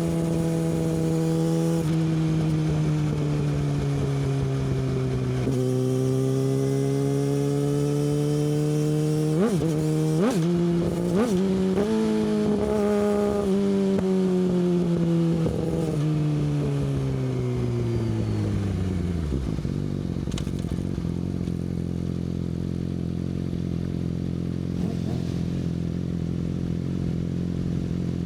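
Yamaha R6 inline-four sport-bike engine with an Akrapovic exhaust, running under way. Its note sags and climbs, then three quick sharp throttle blips come about a third of the way in. The pitch then falls steadily as it slows to a steady idle for the last third.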